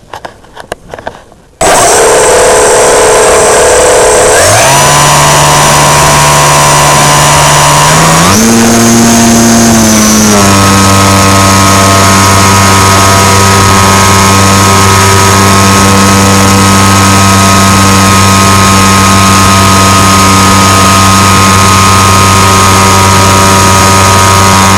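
EasyGlider Pro model glider's electric motor and propeller running at high power right beside the on-board microphone: a loud, steady whine that starts suddenly about a second and a half in and steps up in pitch twice, about four and eight seconds in, as the throttle is opened further. A few faint clicks come before the motor starts.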